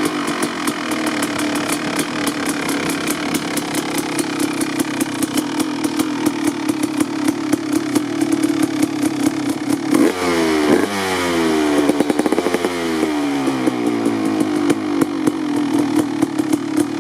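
2003 Kawasaki KX250 two-stroke engine with an FMF Gnarly pipe and shorty silencer, idling as it warms up from a cold start. About ten seconds in, the throttle is blipped a couple of times and the revs rise and fall back to idle.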